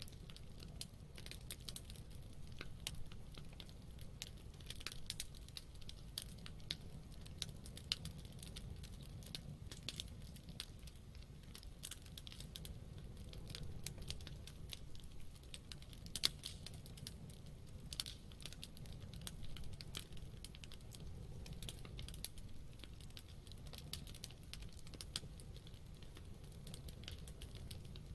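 Wood campfire crackling: a constant run of irregular sharp snaps and pops, some louder than others, over a low steady rumble.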